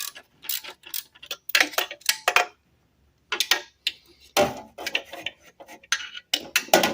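Irregular sharp metallic clicks and clinks of hand tools on the exhaust fasteners as the muffler is being taken off a two-stroke golf-cart engine, with a short pause a little before halfway.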